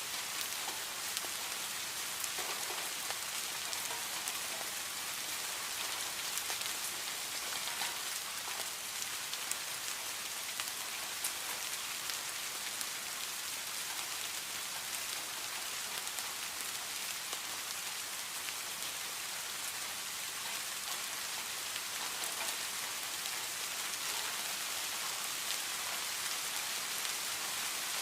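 Steady rain falling, a dense even patter of many fine drops hitting a surface.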